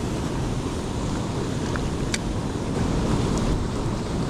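Steady rush of a cascading creek's running water, mixed with wind on the microphone. There is a faint click about two seconds in.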